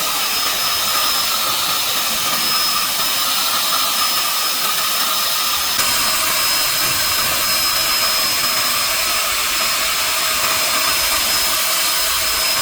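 Paint spray gun running continuously: a steady airy hiss with a thin high whine, with a slight change in tone about six seconds in.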